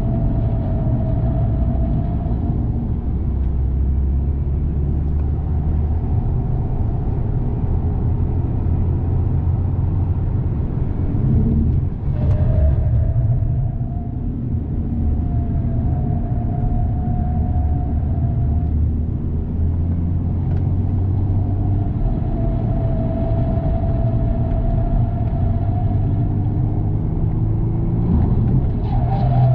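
Higher-pitched metallic rattle over a steady low rumble, the rattle coming and going in stretches of a few seconds.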